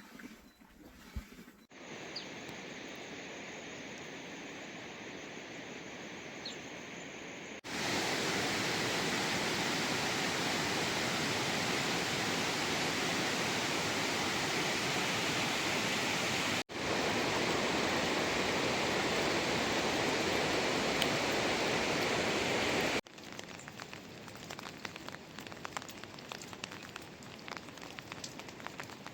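Steady rushing, water-like outdoor noise over several cut-together shots, loudest through the middle stretch. Near the end it gives way to a quieter scatter of small ticks like raindrops.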